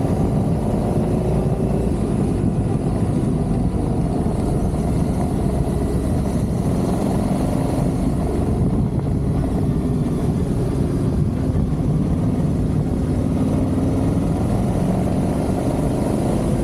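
Adventure motorcycle riding along, its engine running steadily under wind and road noise, the engine note drifting slightly up and down.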